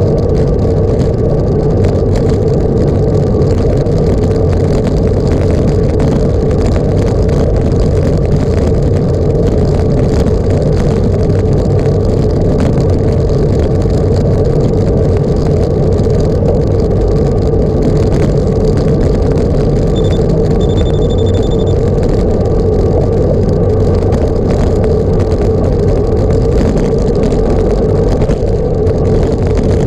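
Vehicle engine running at a steady pace on the move, a constant drone with road and wind noise. About two-thirds of the way through, a short high electronic beep is followed by a longer one.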